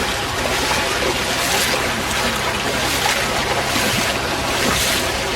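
Fast-flowing floodwater rushing steadily, a loud, even wash of water noise.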